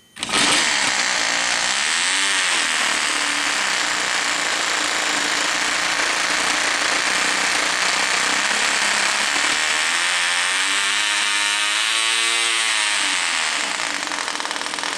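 Cox .020 two-stroke glow-plug model engine running flat out with a loud, high buzzing scream that starts suddenly. Its pitch wavers up and down a few times.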